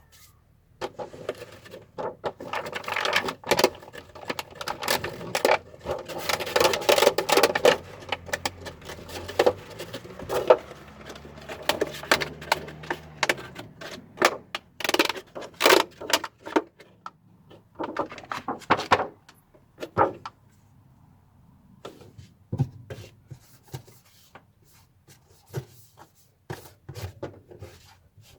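Irregular runs of sharp clicks, taps and knocks from hand work with tools and hard parts, dense at first and sparser near the end.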